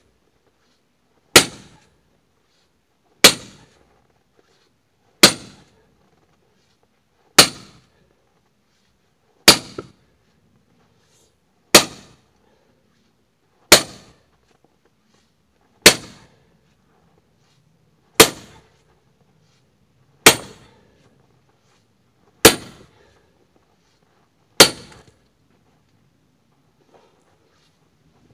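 Axe blows splitting firewood: sharp, cracking strikes about every two seconds, a dozen in all, with a short pause before the last one.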